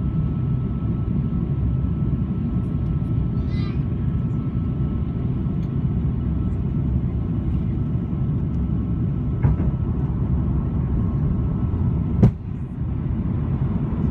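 Steady airliner cabin noise inside an Airbus A330-200: a low, even rush of engine and airflow noise. A faint steady tone sits in it for the first several seconds, and there is a sharp click about twelve seconds in.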